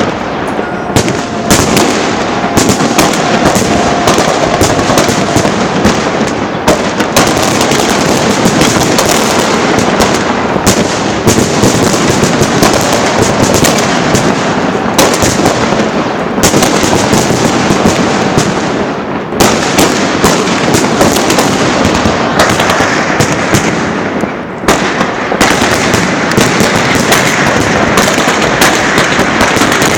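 Fireworks salute launchers firing a dense, continuous barrage: many overlapping bangs and crackling shell bursts with no pause.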